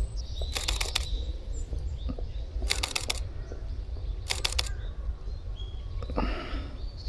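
Camera shutter firing in three short bursts of rapid clicks, each about half a second long: continuous shooting on a Fujifilm X-H1 mirrorless camera.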